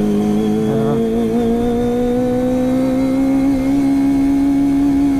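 Kawasaki ZX-25R's inline-four engine through an Akrapovic exhaust, held on steady throttle with its pitch slowly climbing, then dropping near the end.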